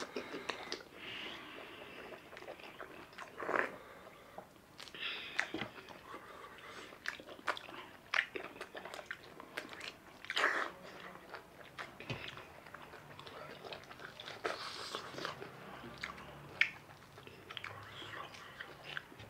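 Close-up chewing and biting of orange segments, mixed with soft tearing and clicking of orange peel being pulled off by hand, in irregular short bursts.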